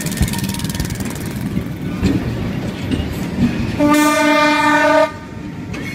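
Train rolling past with a steady rumble of wheels on the rails, then a single horn blast about four seconds in, lasting just over a second.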